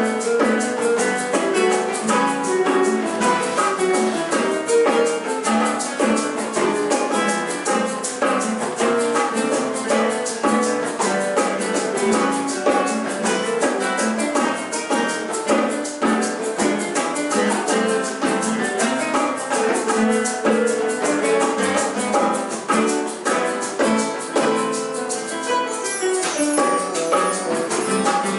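Trio of classical guitars playing a lively piece, with percussion keeping a fast, even rhythm of high ticks under the plucked notes.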